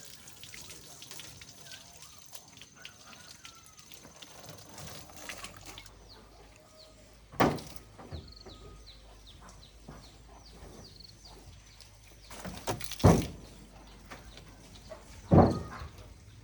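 About four loud, sudden knocks a few seconds apart, two of them close together, over birds chirping in the background.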